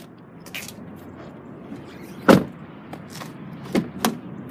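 Car interior fittings being handled: one solid thump about halfway through, then two sharp clicks a quarter of a second apart near the end.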